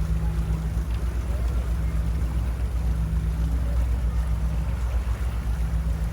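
Tour boat's engine running steadily: a low hum with a fast, even throb.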